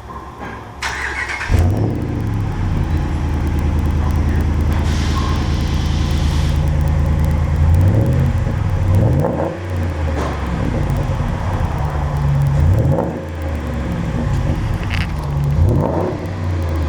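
2015 Ram 1500's 5.7-litre Hemi V8 starting through a new Magnaflow stainless steel muffler: a brief crank, catching about a second and a half in, then a loud idle. Several short revs of the throttle follow in the second half.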